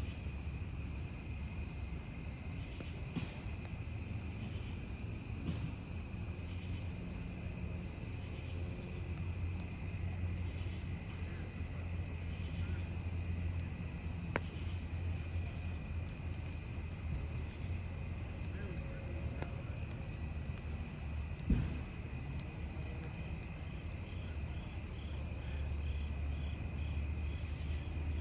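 Crickets chirping steadily over a crackling campfire, with a few sharp pops from the burning wood, the loudest about 21 seconds in.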